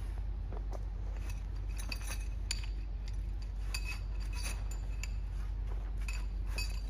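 Light clinking and jingling of small hard objects, metal or glass, in short clusters every couple of seconds, over a steady low rumble.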